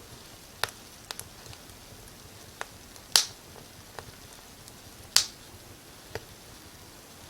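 Wood fire crackling: irregular sharp pops and snaps, about eight in all, the two loudest about three and five seconds in, over a faint steady hiss.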